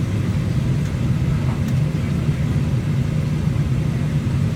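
Steady low rumble of a jet airliner's engines and air heard inside the passenger cabin.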